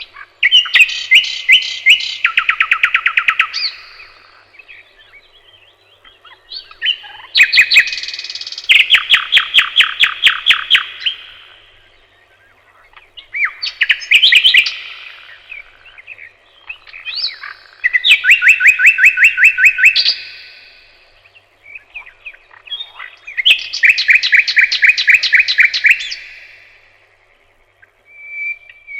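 A songbird singing close by in a summer forest: five loud phrases, each a quick run of repeated notes lasting about three seconds, with pauses of a few seconds between them.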